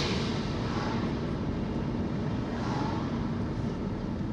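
Car running on the road, heard from inside the cabin: a steady low rumble of engine and tyre noise.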